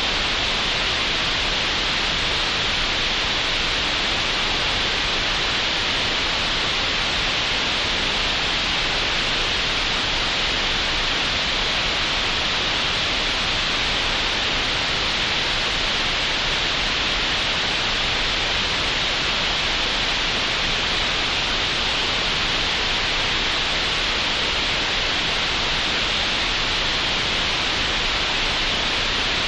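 Steady, unchanging green noise generated in Audacity: an even hiss, brightest in the upper middle and with nothing above a sharp top cutoff.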